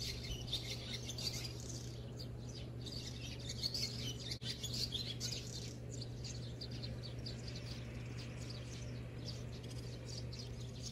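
Birds chirping outdoors in quick, short, high calls, thinning out after about six seconds, over a steady low hum.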